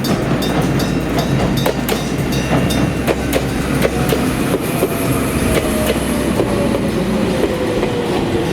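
Jōmō Electric Railway train running past at a level crossing: a steady rumble with rapid clicking of wheels over rail joints, and a whine that slides slowly down in pitch through the second half.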